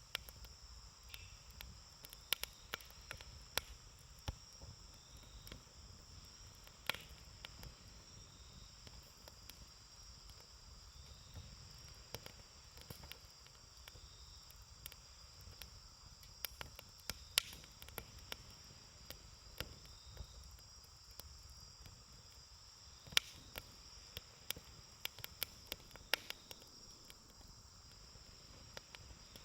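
Wood campfire crackling, with irregular sharp pops and snaps scattered through, one louder snap about two thirds of the way in. A steady high-pitched insect chirr runs underneath.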